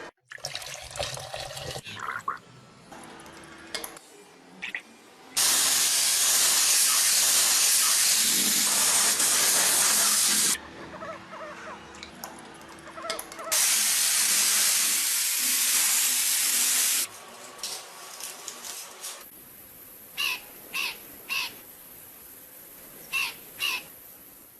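Two long bursts of loud, even hissing from a pressurised spray, each starting and stopping abruptly and lasting a few seconds. Short high squeaks come in two pairs near the end.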